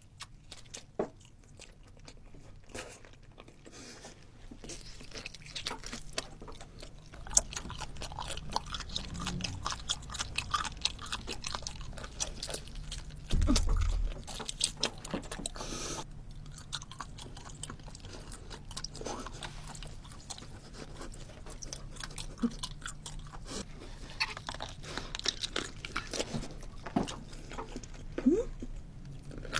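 Close-miked eating sounds: a person biting and chewing food, with many small crunches and crackles. A brief loud thump comes about halfway through.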